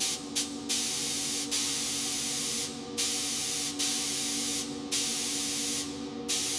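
Spray gun hissing in repeated bursts, two short ones and then about a second each with brief pauses between, over a steady low hum of tones.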